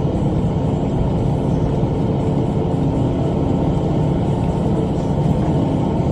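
Tractor's diesel engine running steadily under load, driving a rotary cutter (bush hog) at work.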